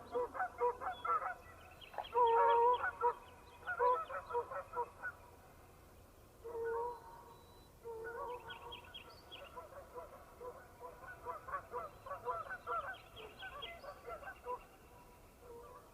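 A flock of geese honking in flight, many short calls overlapping in bouts, with a lull in the middle before the calling picks up again.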